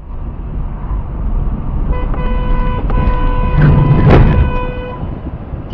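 Car horn held for about three seconds over steady road and engine noise, with a loud noisy burst near its end, about four seconds in.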